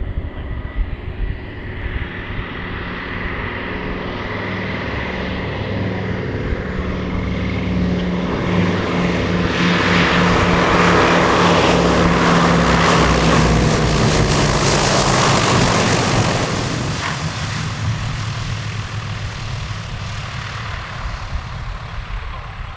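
Grumman TBM Avenger's Wright R-2600 radial engine and propeller in a flyby. The engine drone grows louder to a peak about ten to sixteen seconds in, drops in pitch as the aircraft passes, then fades away.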